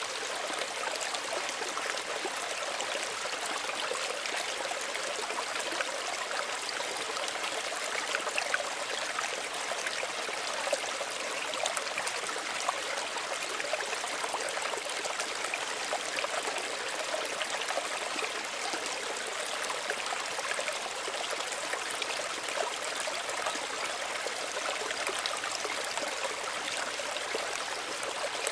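Small stream running over stones, a steady trickling and babbling with no breaks.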